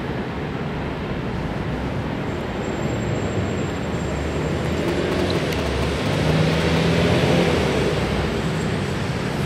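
Road traffic: a steady rush of passing vehicles, with one engine hum swelling louder about six to seven seconds in as a vehicle goes by.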